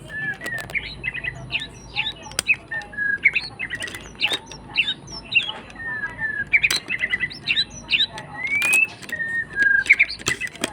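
A tame pet bird singing: a run of quick chirps and short whistled notes, with a few rising and falling whistles, and occasional sharp clicks.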